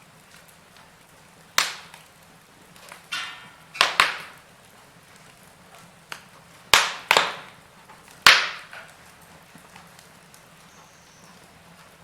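Wood fire burning in a fireplace: logs crackling and popping in sharp, sudden snaps every second or two, about seven in all, the loudest near the middle, over a faint steady background.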